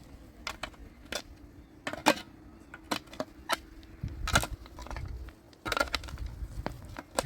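Irregular sharp knocks and clacks of hard objects being handled, about nine over several seconds, with a low rumble underneath from about halfway through.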